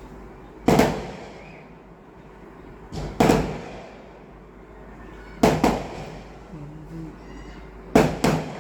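Four sharp knocks or clacks, about two and a half seconds apart, most of them doubled, each with a short fading tail.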